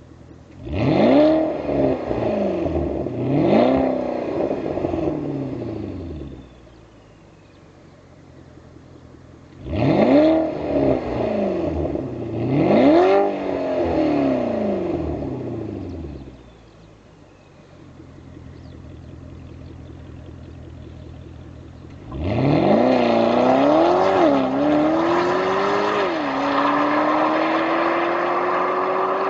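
Porsche Panamera Turbo's twin-turbo V8, TechArt-tuned, blipped twice in quick succession, dropping back to idle, then blipped twice more. From standstill it then accelerates hard, the engine note climbing and dropping back at each upshift.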